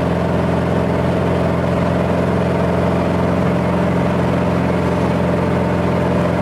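A 2110 cc air-cooled Volkswagen flat-four with a large 1 1/2-inch exhaust, heard from inside the cab while cruising at a steady engine speed off the throttle. The exhaust note is deep and even, purring along without revving up or down.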